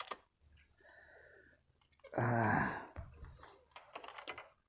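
A man's short voiced sigh or groan about two seconds in, followed by a series of light clicks and handling noises.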